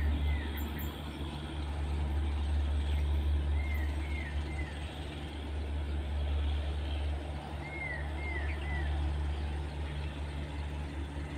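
Steady low rumble of a distant electric train, hauled by a WAG-9 locomotive, coming along the track. A bird repeats a short three-note call about every four seconds.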